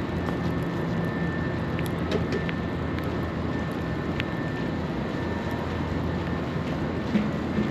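Steady city ambience in a snowstorm: a low, even rumble with a faint thin high tone running through it.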